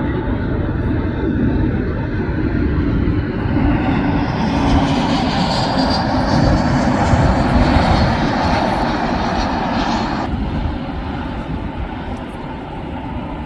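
Jet airliner engines passing close by, growing louder with a rising hiss over several seconds, then cutting off sharply about ten seconds in.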